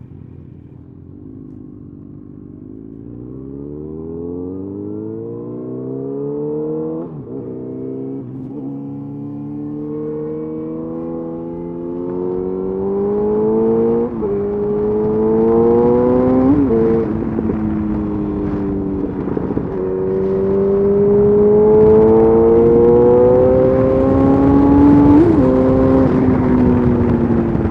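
Yamaha FZ8's inline-four through a LeoVince exhaust with the dB killer removed, accelerating up through the gears. The engine note climbs and dips back at each of several upshifts, getting louder as speed builds.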